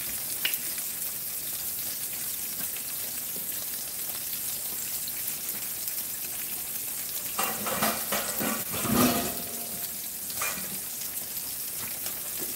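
Snapper fillets searing skin side down in oil and Brussels sprouts frying in bacon grease, a steady sizzle from the two pans. There is a short stretch of louder knocks about eight to nine seconds in.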